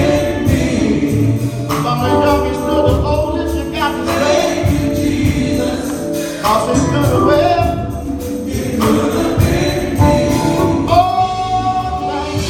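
Gospel choir singing over a band, with a steady beat of percussion strikes.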